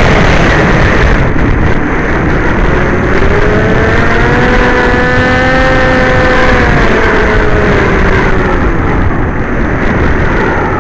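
Electric motor and propeller of a small FPV aircraft whining in flight over heavy wind buffeting, heard from its onboard camera. The pitch drops at the start, climbs over the next few seconds, holds, then sinks again as the throttle changes.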